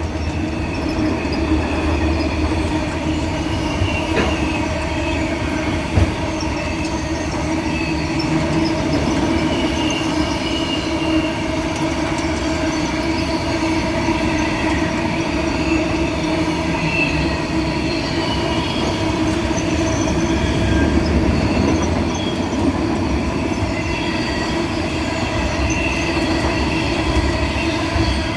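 Cattle train of wagons rolling past on the rails, the wheels squealing steadily, with a sharp knock about six seconds in.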